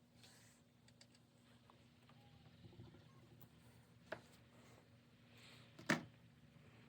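Faint handling noises of small metal parts, with two short sharp clicks, the louder one near the end.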